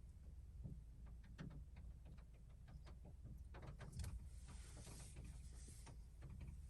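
Faint wild birds chirping in short scattered calls over a low steady hum, with a soft hiss from about four seconds in to about six.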